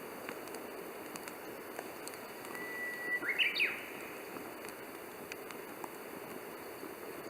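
Wood fire burning with scattered small crackles and pops over a steady hiss. About halfway through a bird calls once: a short held whistle followed by quick sweeps up and down, lasting about a second.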